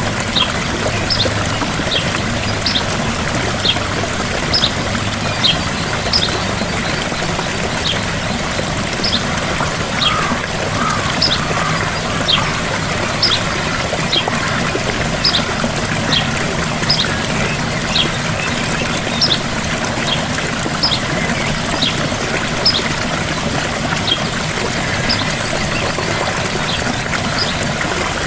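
Gentle waterfall: a steady rush of falling water, with a bird repeating short, high, downward-sliding chirps about once a second.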